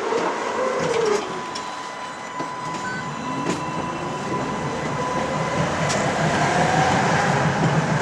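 Tram pulling away and gathering speed: the electric traction motor whines, its pitch rising steadily, over a low rumble of the wheels on the rails that grows louder.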